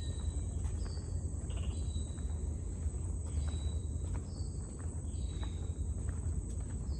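Outdoor nature ambience: a steady high-pitched insect drone, with a bird repeating a short high call about once a second over a steady low rumble.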